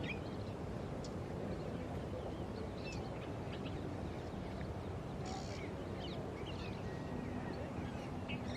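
Wild birds chirping and calling in short, scattered notes over a steady low background noise.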